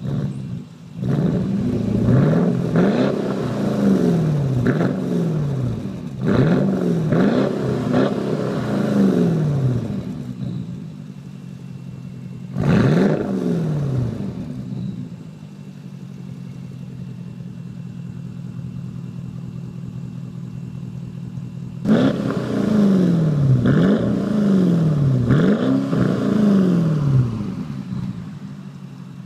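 Porsche Cayenne Turbo twin-turbo V8 with a HAMANN tuning exhaust, revved in a series of quick throttle blips, the pitch shooting up and dropping back each time. In the middle there is one lone blip, then several seconds of steady idle before another run of blips.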